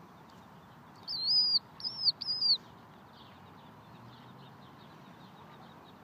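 A bird gives three loud, high, arched calls in quick succession about a second in, over faint background chirping.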